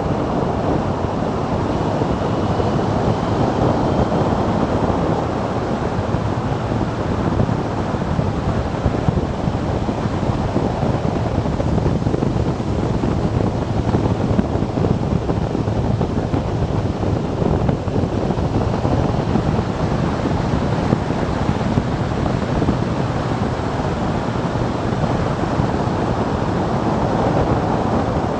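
Wind rushing over the microphone of a moving motorcycle, a steady dense roar with engine and road noise mixed in underneath.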